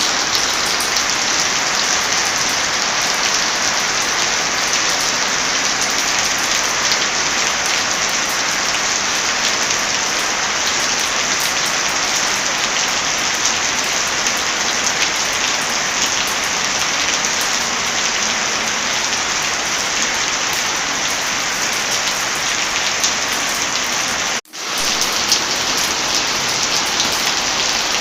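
Steady heavy rain with the occasional crackle of a wood fire. The sound cuts out for an instant about 24 seconds in and swells back.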